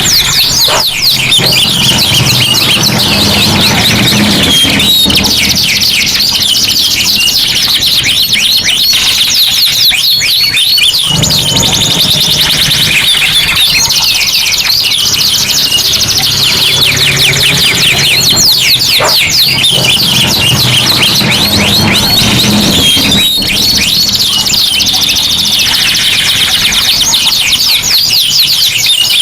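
Three domestic canaries singing at once, as a tutor song: a loud, unbroken run of very fast high trills and rolling warbles that overlap into a dense chorus.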